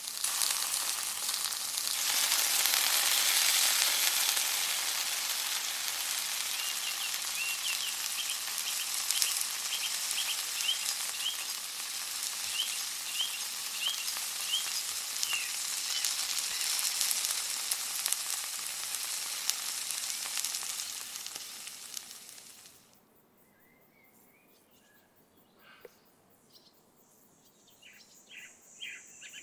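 Chicken frying in hot coconut oil, a steady dense sizzle that grows louder about two seconds in and stops about 22 seconds in. Birds chirp faintly behind it and are left alone once the sizzling stops.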